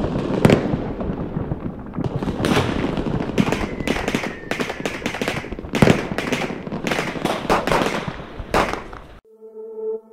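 Firework bangs and crackling, a dense run of sharp reports with several louder bangs among them and a faint, slightly falling whistle about four seconds in. It cuts off abruptly near the end.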